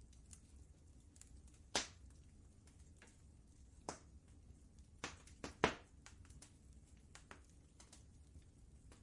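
Wood fire crackling over a low steady rumble, with scattered sharp pops, the loudest about two seconds in and a quick cluster of three between five and six seconds in.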